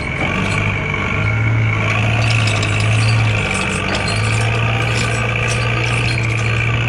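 Truck engine running steadily: a low, even hum that dips briefly about three and a half seconds in.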